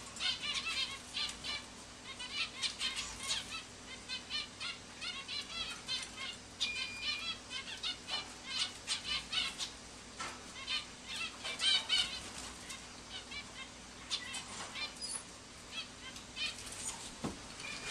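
Small caged pet birds fluttering their wings and chirping in quick bursts throughout, agitated by a net at the cage door.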